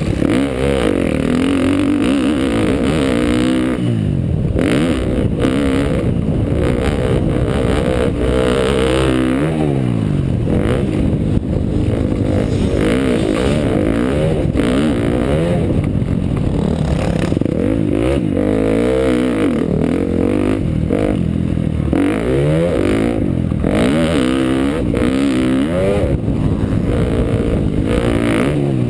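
2012 KTM dirt bike engine revving up and dropping off over and over as it is ridden through a motocross lap, with a steady rushing noise behind it and the odd clatter.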